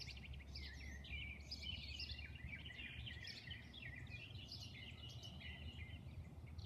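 Several small songbirds singing at once: a dense, overlapping chorus of quick high chirps, twitters and trills, over a steady faint low rumble.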